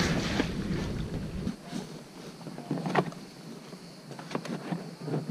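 Scattered knocks and clunks of gear being handled in an inflatable boat, over a faint hiss. A low rumble in the first second and a half; the loudest knock comes about three seconds in.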